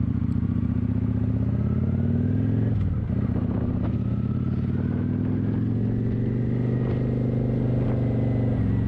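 Kawasaki motorcycle engine running while riding, with a brief break about three seconds in, then climbing steadily in pitch as it picks up speed.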